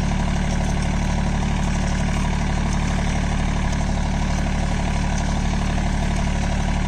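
John Deere 3028EN mini tractor's three-cylinder diesel engine running steadily at an even speed.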